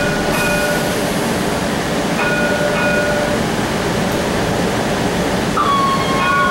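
Streetcar running, heard from inside the car as a steady rumble. A high ringing tone comes and goes for about a second at a time, and a slightly falling high squeal starts near the end.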